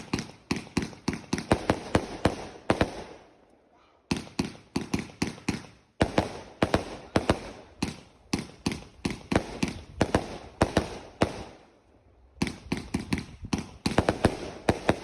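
Fireworks going off: a rapid run of sharp bangs, several a second, in volleys with brief lulls between them, as from a firework barrage cake.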